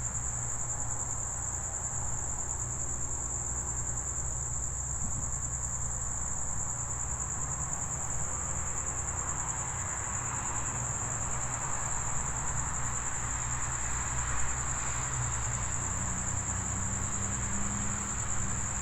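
Crickets chirping in a steady high-pitched chorus, over a low steady hum.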